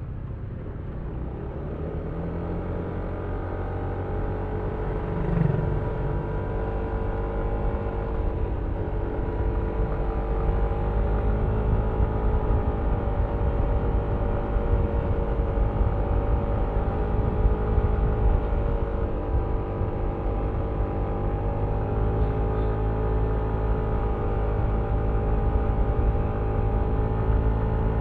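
Yamaha Aerox V3 scooter's 155 cc single-cylinder engine running under way, heard from the rider's seat over a low wind rumble on the microphone. It grows louder over the first several seconds, then holds a steady drone with small rises and falls in pitch.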